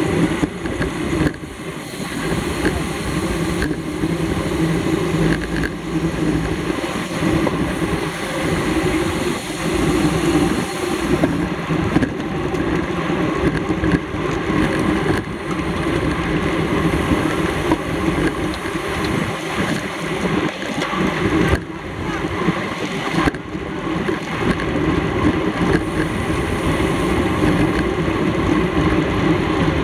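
Steady rush of wind and road noise on a camera riding with a road bicycle in a race, with a few brief knocks.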